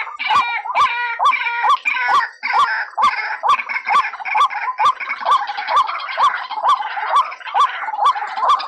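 White-breasted waterhen (ruak-ruak) call played as a lure, repeated over and over at about two to three short rising notes a second. In the first few seconds more calls are layered over it.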